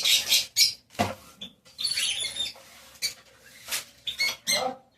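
Small birds chirping and chattering in quick, high-pitched bursts, with a single knock about a second in.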